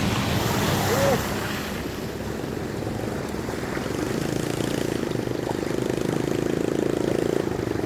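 A small engine running with a fast, even beat that comes up and gets louder from about halfway through, over a steady rush of water noise.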